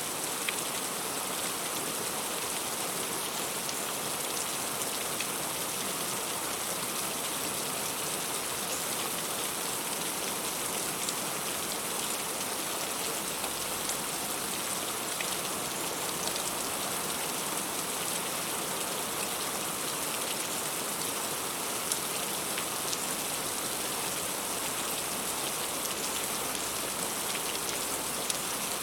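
Heavy rain falling steadily on fruit: a dense, even hiss with scattered sharper drop impacts.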